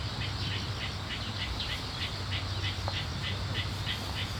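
Rhythmic high chirping, about five short chirps a second and evenly paced, over a steady low rumble.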